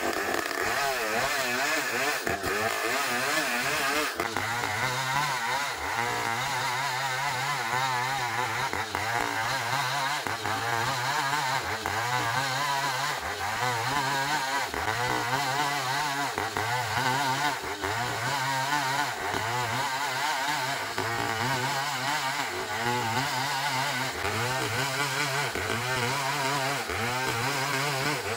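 Engine-driven 'trio' sawmill running steadily while sawing an ironwood (ulin) log, its engine drone pulsing regularly a little over once a second.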